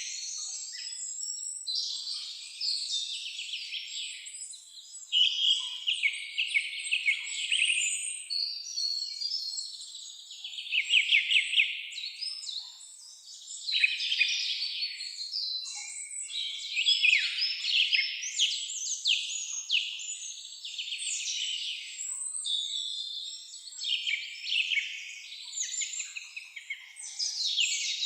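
Songbirds singing without pause: rapid high trills and quick runs of repeated chirping notes, one phrase after another and often overlapping.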